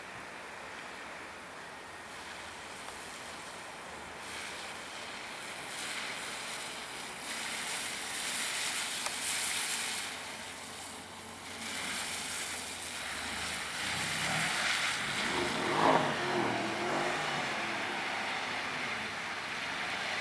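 A Mercedes-AMG car being driven hard on a track: engine and tyre noise build gradually as it approaches, peak about three quarters of the way in, then ease off a little.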